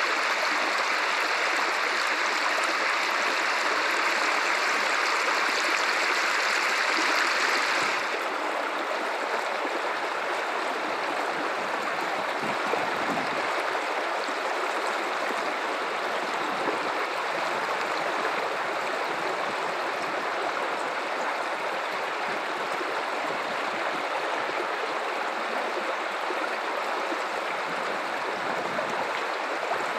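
Guadalupe River water running in a steady rushing flow. About eight seconds in the sound abruptly becomes a little quieter and duller, with less hiss.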